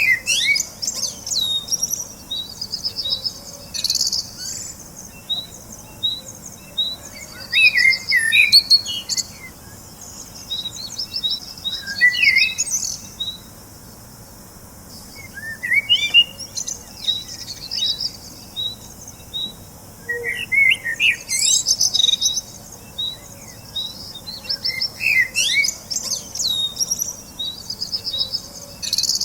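Songbirds singing: a steady run of short, high chirps about two a second, with louder warbled phrases from another bird every few seconds.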